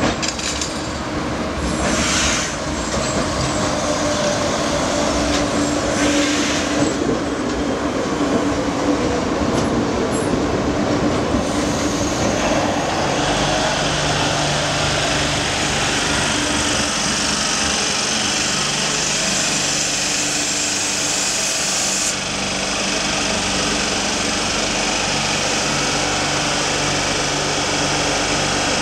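Euskotren series 200 electric commuter train pulling slowly into a terminus platform and coming to a stop, with wheel-on-rail noise and a steady electric hum. A high hiss cuts off suddenly about three-quarters of the way through.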